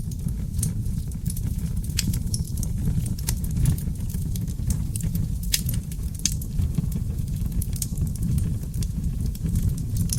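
Wood fire of oak logs burning in a fireplace: a steady low roar of flames with frequent sharp, irregular crackles and pops.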